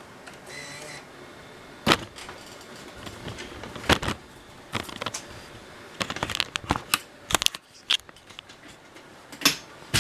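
Sharp clicks and clunks from the buttons and tape mechanism of a Sony Betacam SP camera's built-in tape deck. They come singly a few seconds apart, with a quick run of them around six to seven seconds in.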